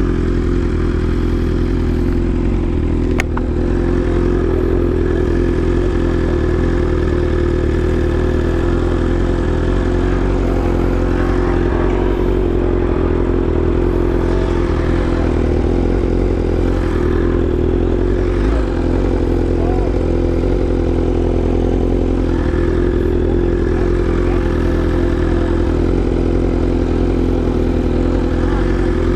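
BMW S1000RR inline-four engine with an aftermarket exhaust idling steadily at an even pitch. A single sharp click about three seconds in.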